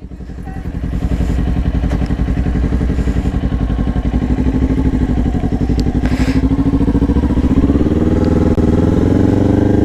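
Kawasaki Ninja 400's parallel-twin engine running as the motorcycle pulls away. It gets louder over the first second, and its pitch climbs slowly through the second half.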